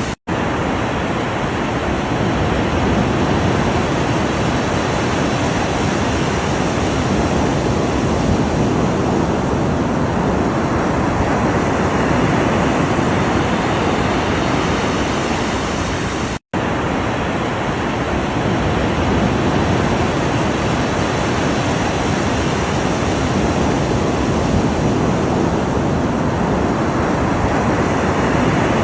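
Ocean waves washing on the shore: a steady rushing surf with slow swells, cut off for an instant twice, just after the start and about halfway through.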